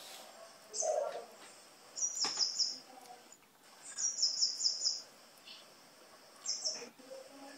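Small bird chirping: short high chirps, singly and in two quick runs of five or six.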